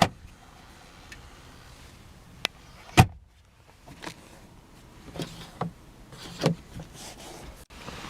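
Sharp clicks and knocks from the car's interior fittings, the loudest about three seconds in, followed by a short low hum from a small electric motor between further clicks.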